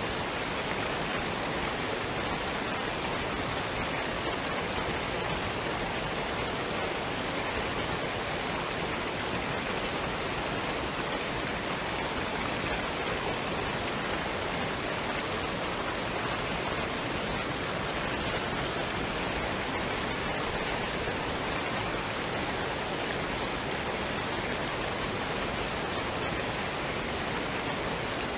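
Waterfall and stream water rushing in a steady, even hiss.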